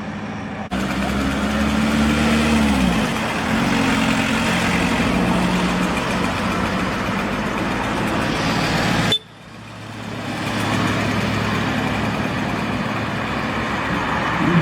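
Classic car engines running as the cars drive off, one engine revving up and settling about two to three seconds in. The sound changes abruptly twice, about a second in and again after about nine seconds.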